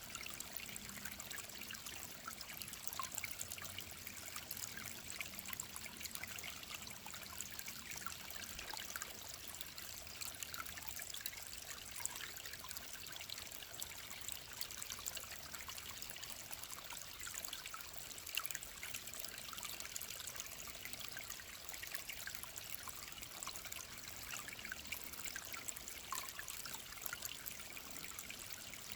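A small mountain stream running and trickling over stones, a steady splashing hiss full of small sharp drips and plinks.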